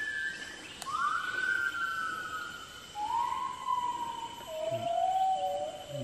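A forest bird's long whistled calls, each swooping up and then sliding slowly down, every call pitched lower than the one before. There is a single sharp click about a second in.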